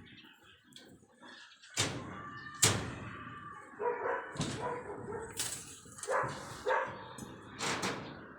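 A dog barking and whimpering in a string of short calls, a few of them sharp.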